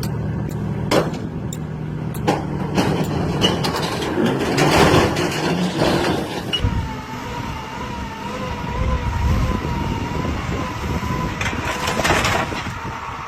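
Road-vehicle sounds: an engine running with several sharp knocks, then a loud noisy stretch about four to six seconds in. After that comes a long, slightly wavering tone, with a burst of noise near the end.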